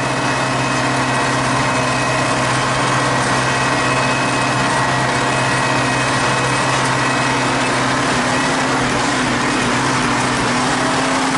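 T-150K wheeled tractor's diesel engine running steadily under load, a constant loud drone heard from inside the cab while driving in the top (4th) range.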